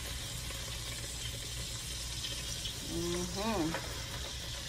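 Shredded cabbage dropped by the handful into hot bacon grease in a pot, frying with a faint sizzle over a steady low hum. A brief hummed voice sounds about three seconds in.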